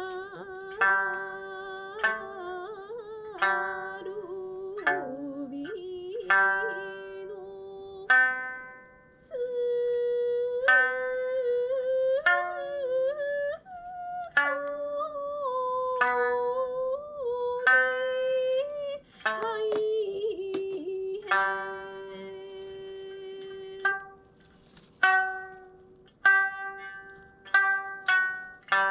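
Sanshin, the Okinawan three-stringed lute, being plucked: single notes strike and die away roughly once a second. Over it runs a held, wavering melody line that bends in pitch.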